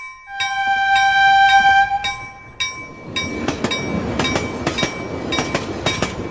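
Train horn sounding one long blast of about two seconds, then a train passing close by with a rumble and repeated wheel clicks.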